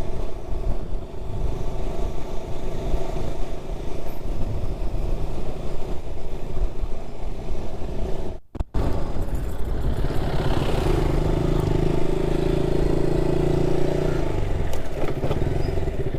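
Motorcycle engine running while riding. The sound cuts out for a moment a little past halfway, then the engine holds a stronger, steady note for several seconds before easing near the end.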